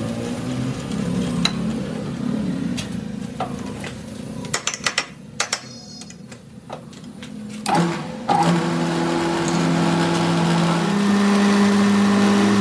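Workshop machinery: an uneven mechanical running noise, a few sharp clicks and knocks, then an electric motor starting up and running with a steady hum that shifts slightly higher near the end.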